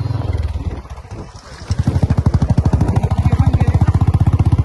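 Motorcycle engine running close by. Its rapid, even firing pulses become loud about a second and a half in, after a quieter low rumble.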